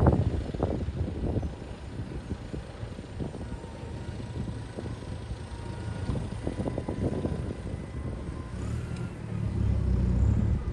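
Vintage tractor engines running as they drive past on the road, with a low drone that swells near the end. Gusts of wind buffet the microphone.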